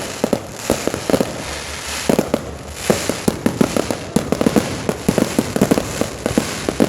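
Fireworks going off: a rapid run of pops and bangs, several a second, over a steady crackling hiss.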